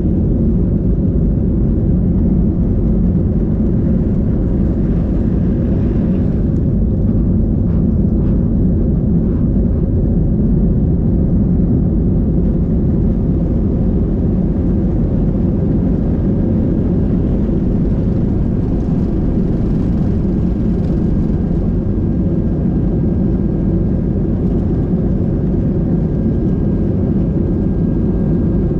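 Steady low rumble of a vehicle in motion, heard from inside, with a faint steady whine joining in about halfway through.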